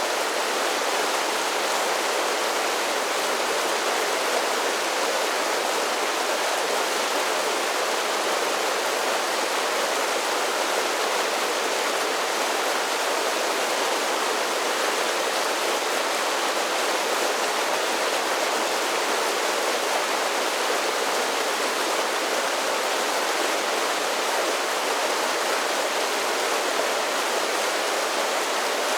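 Mountain creek splashing down a series of small waterfalls, a steady rushing of water.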